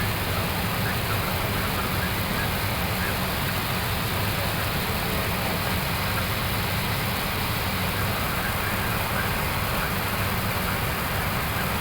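Steady flight-deck noise of an Airbus A321neo in climb: an even rush of airflow over a low hum, unchanging throughout.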